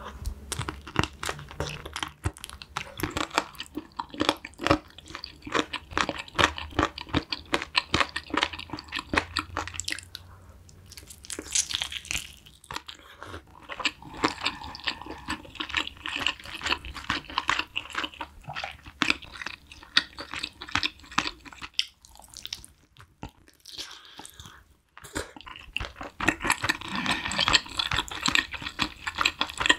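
Close-miked chewing and biting of saucy braised chicken pieces, a dense run of wet mouth clicks and smacks, with two short pauses in the middle.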